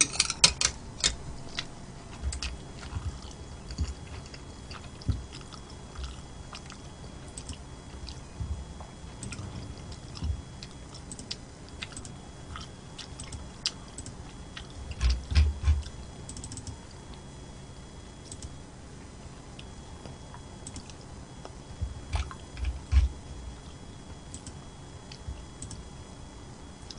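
Close-miked eating sounds: a person chewing, with scattered sharp clicks. There is a quick run of clicks at the start, and louder bouts of chewing about halfway through and again near the end.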